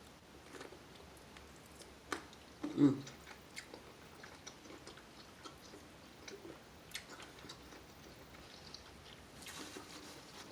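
Close-miked chewing and mouth sounds while eating seafood: soft wet smacks and small clicks, with a sharp click about 2 seconds in and a louder short sound just before 3 seconds.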